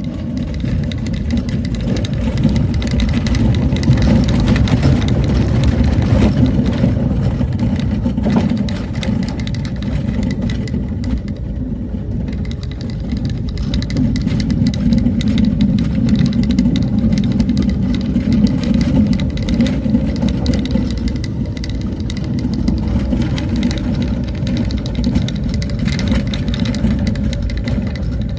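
A motor vehicle driving along a road: steady engine and road rumble, with many small rattles and knocks over it.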